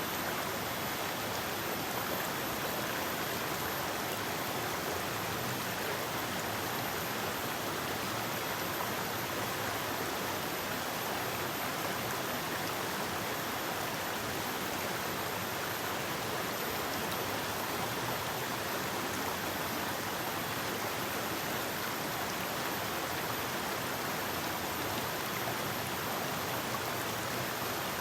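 Forest river flowing, a steady rushing of water over stones.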